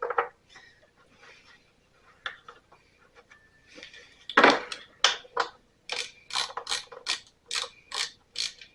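Ratchet wrench working bolts on the engine's cover, a rapid ratcheting rasp repeated about three times a second, after scattered handling clicks and a loud knock about halfway through. The bolts are being loosened to take the cover off and reach the ignition coil.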